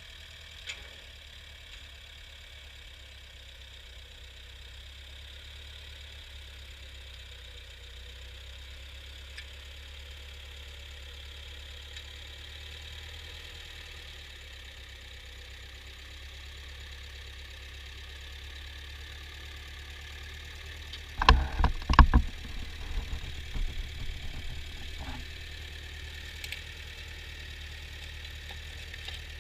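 Ford farm tractor engine running steadily. About two-thirds of the way through comes a quick cluster of loud thumps, followed by a few softer knocks.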